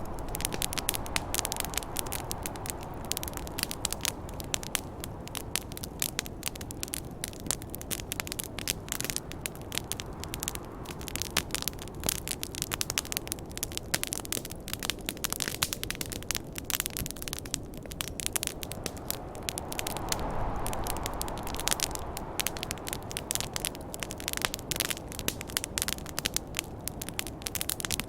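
Campfire crackling and popping in a dense, irregular patter of sharp snaps, over the steady rush of snowstorm wind. The wind swells in gusts near the start and again about twenty seconds in.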